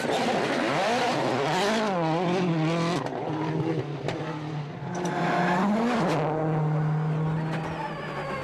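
Rally car engine revving hard on a special stage, its pitch rising and falling with throttle and gear changes, then holding steadier near the end.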